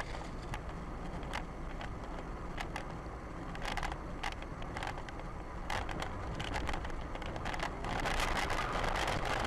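Steady road and engine noise of a moving car, with scattered sharp clicks and ticks, growing louder and rushier for the last second or so.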